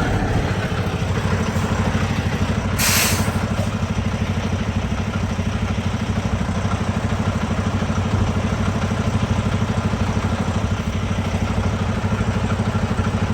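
Vehicle engine idling steadily, with a short sharp hiss about three seconds in.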